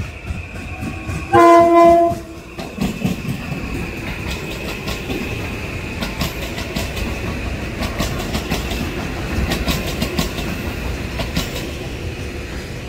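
Metro-North M8 electric multiple-unit train passing through at speed: one horn blast of about a second, loud, just over a second in, then the wheels clattering rhythmically over rail joints and switches with a steady high whine, easing off near the end as the last cars go by.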